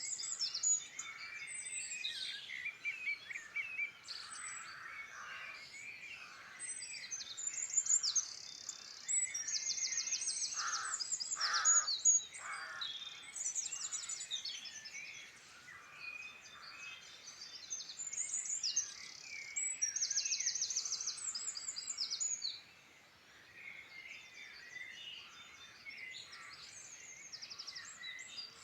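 Several songbirds singing at once, with repeated rapid high-pitched trills over a mix of chirps and warbles. It is quieter in the last few seconds.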